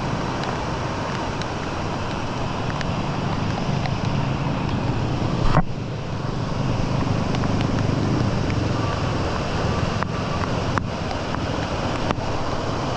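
Steady rush of heavy rain and flowing water, with wind on the microphone and scattered small ticks. A brief, louder knock comes a little before the middle.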